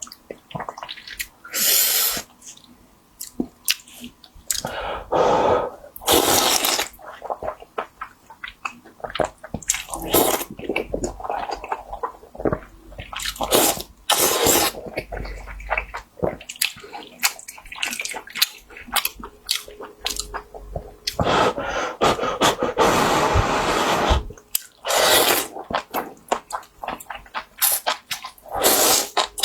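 Close-up eating sounds of a person eating spicy seafood: repeated wet slurps and chewing, with many small clicks and smacks. A longer slurp comes about three-quarters of the way through.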